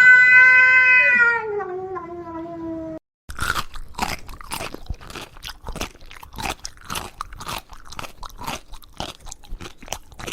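A cat's long meow, about two seconds, sliding down in pitch at the end. After a cut, an animal chewing and crunching something crisp, with irregular crunches about two or three a second.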